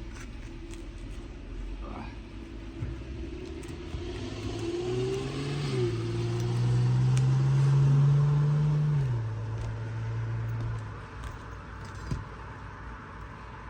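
A motor vehicle's engine running nearby with a low hum that swells over a few seconds, is loudest about eight seconds in, then drops and stops about eleven seconds in. A sharp click comes shortly after.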